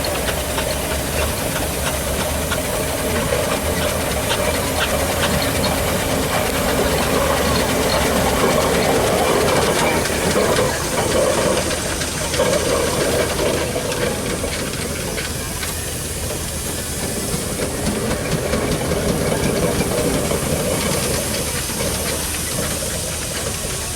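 Steam traction engines running, with a steady hiss of steam.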